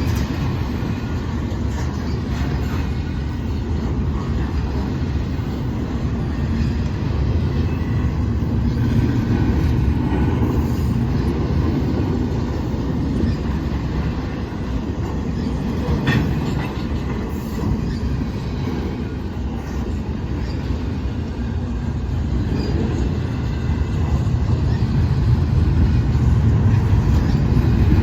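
A train rolling past at close range, a steady rumble of wheels on the rails that grows a little louder near the end.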